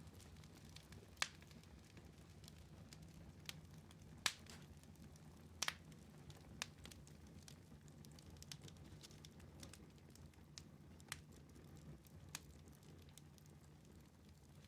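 Wood fire in a fireplace crackling: scattered sharp pops and snaps, the loudest about one, four and five and a half seconds in, over a low steady hum.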